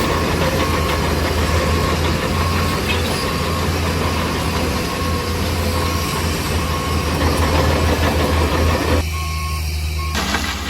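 Heavy diesel engine running steadily with a strong low drone, while a backup alarm beeps about once a second. The mix changes abruptly near the end.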